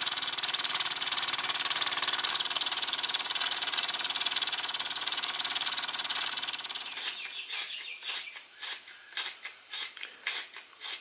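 Small toy steam engine racing with no load, its belt off the fan: a fast, steady stream of exhaust chuffs and steam hiss. About seven seconds in it slows to separate chuffs, two or three a second.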